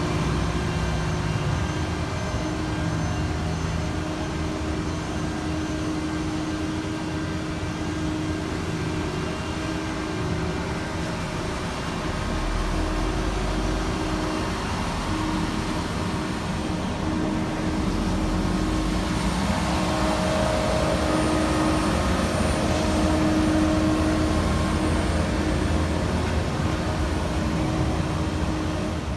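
Heavy diesel road-paving equipment running steadily: a continuous engine drone with a steady hum, a deeper rumble joining about twelve seconds in.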